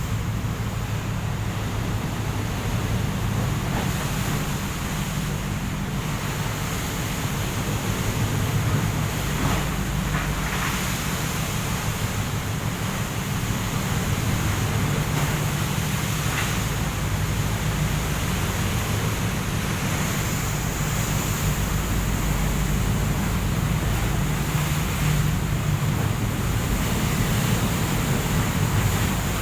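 A boat's engine running with a steady low hum, under continuous wind and sea noise.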